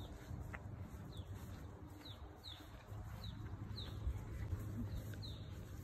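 A small bird chirping over and over, each chirp a quick high downward sweep, about one every half second, over a low rumble.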